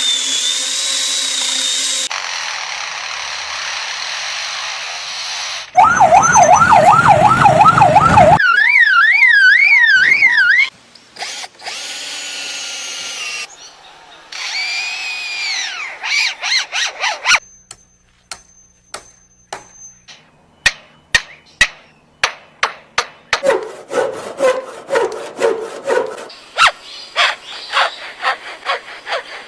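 Lyrebird mimicking man-made sounds in a string: first a steady power-tool noise like a saw or drill, then a loud warbling siren like a car alarm, a few whistled calls, and in the second half a long run of sharp clicks in quick bursts like a camera shutter.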